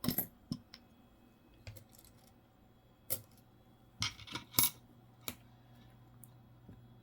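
Coins clinking as they are set down and stacked on a hard surface: a scattering of short sharp clicks, with a small cluster of them about four seconds in.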